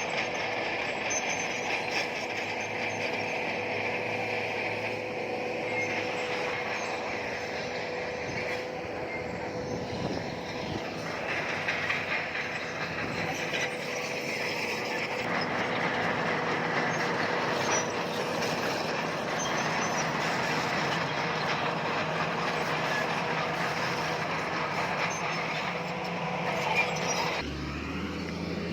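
Crawler bulldozer working: its diesel engine runs steadily while the steel tracks squeal and clank as the machine moves. The sound changes abruptly near the end, when a lower engine tone comes in.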